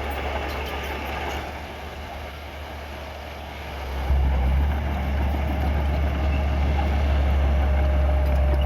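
Heavy diesel engine of earthmoving equipment running with a deep, steady drone, which steps up sharply and grows louder about four seconds in.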